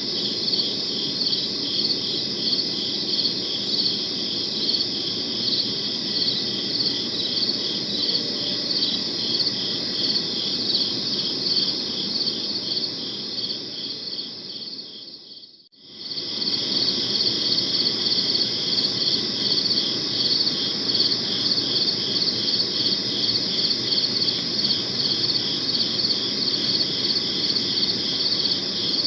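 Crickets chirping in a fast, even rhythm of about five chirps a second over a soft low hiss. About halfway through, the sound fades to near silence and comes back within a second.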